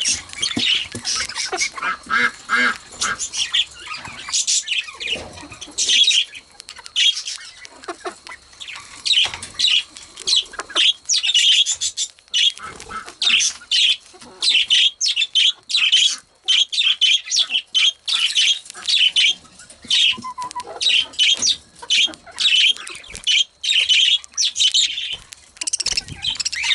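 Female budgerigars squawking and chattering in quick, short calls, one after another with brief pauses.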